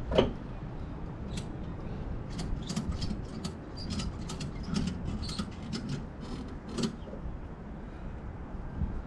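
Irregular light metallic clicks and clinks, a dozen or so between about one and seven seconds in, over a low steady rumble.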